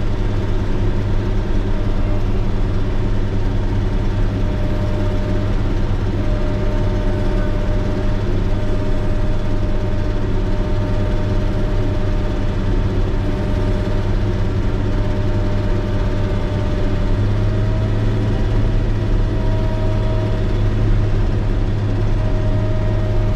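Motor grader's diesel engine running steadily with a deep, even drone, a little stronger from about two-thirds of the way in.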